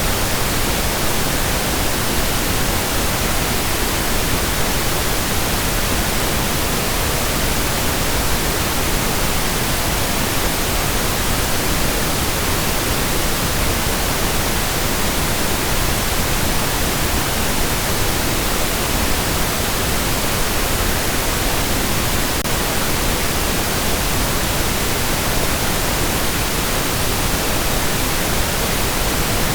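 Steady pink noise: an even hiss spread over all pitches, unchanging.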